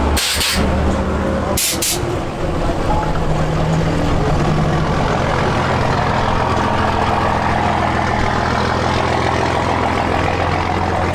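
Vehicle engine running steadily with a low, even hum. Two short, sharp hisses of air come within the first two seconds.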